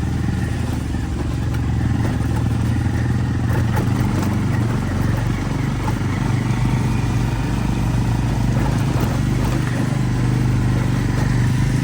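Sport motorcycle engine running steadily while riding, with noise from the air rushing past.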